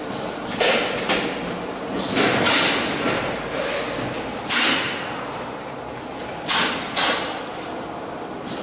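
Packaging machine running, with a short hissing burst every one to two seconds over a steady high whine.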